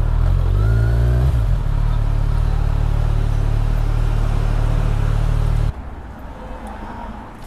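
Kawasaki Z1000's inline-four engine idling on its stock exhaust, with one short rev about half a second in that rises and falls back. The engine is switched off about five and a half seconds in, and the sound cuts off suddenly.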